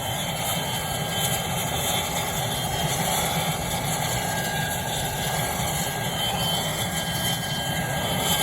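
Crop-duster airplane's engine running steadily just after start-up.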